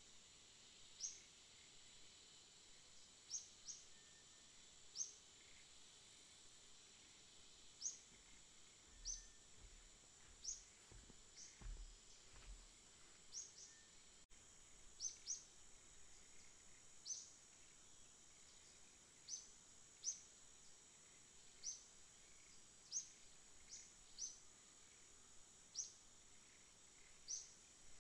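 Faint, high-pitched bird chirps, short single notes repeated every second or two, over a steady high hiss.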